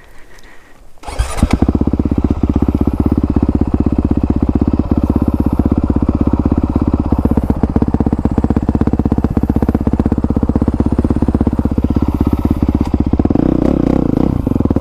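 2020 Honda CRF450R's single-cylinder four-stroke engine, fitted with a new exhaust, fires about a second in and then idles with a fast, even beat.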